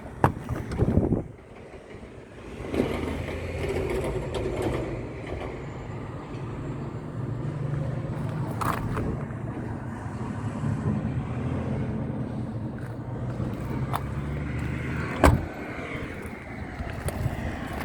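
A vehicle engine running steadily at idle, coming in about three seconds in after a couple of clicks. A single sharp knock near the end is the loudest sound.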